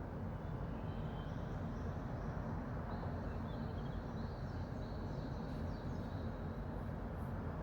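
Small birds chirping and trilling at dawn, in short scattered calls, over a steady low background rumble.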